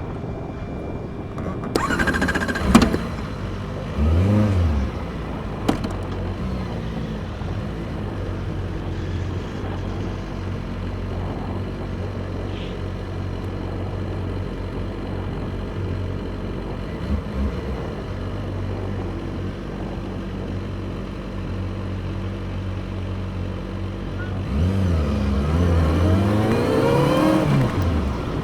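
Motorcycle engines running at low speed, with the revs rising and falling briefly about two to five seconds in and again for several seconds near the end. A sharp knock comes about three seconds in.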